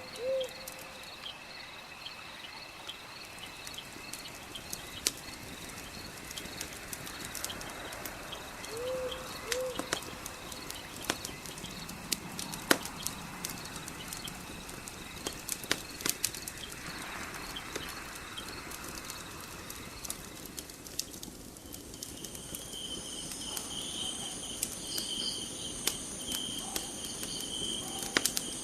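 Wood fire crackling with scattered sharp pops, over crickets chirping in a steady pulsing chorus; a second, higher insect trill joins about two-thirds of the way through. A short two-note call sounds near the start and again about nine seconds in.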